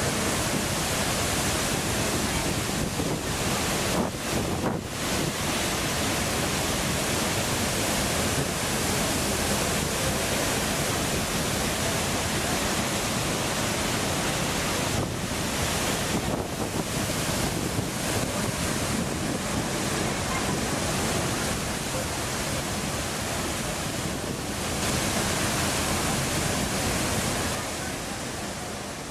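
Steady rushing of a large waterfall in full monsoon flow, a dense wall of water noise that hardly changes.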